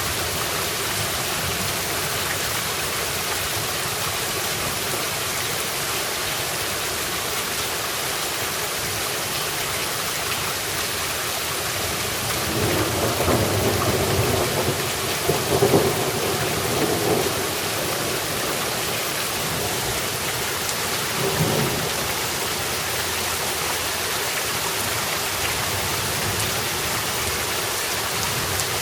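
Steady heavy rain falling, with a roll of thunder rumbling through about halfway in and a shorter rumble a few seconds later.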